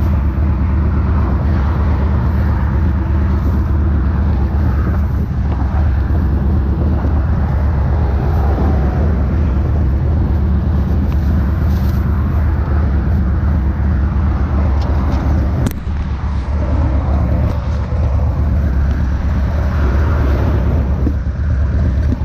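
Steady low drone of a motorcycle engine running, with a single sharp click about sixteen seconds in.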